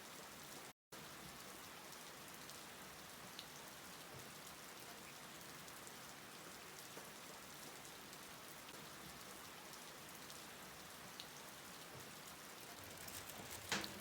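Light, steady rain falling, a soft even patter with scattered small drop ticks. It cuts out completely for a moment about a second in, and a few louder sharp clicks come near the end.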